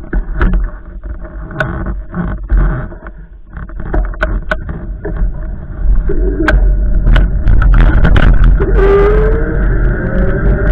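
Strong wind gusts buffeting the microphone with a heavy, uneven rumble, mixed with scattered knocks and rattles. From about eight seconds in, slowly rising whistling tones join in.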